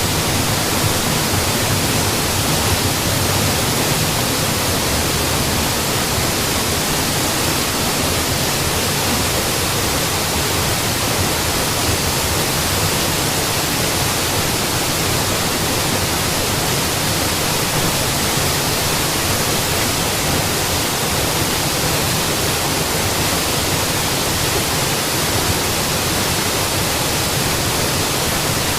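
Waterfall crashing steadily: a dense, even rush of falling water with no breaks or changes.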